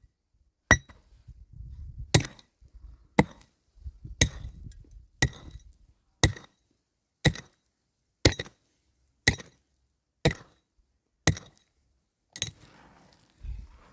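A hand tool striking wood in a steady rhythm of about one blow a second, each blow sharp with a short metallic ring, during work on a timber-and-plank roof. The blows stop near the end and give way to soft rustling.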